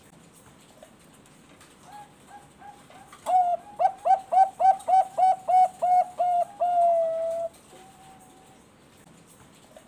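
Zebra dove (Thai-bred perkutut bangkok) singing: a few soft coos, then a fast run of about a dozen clear cooing notes, three or four a second, ending on a longer held note.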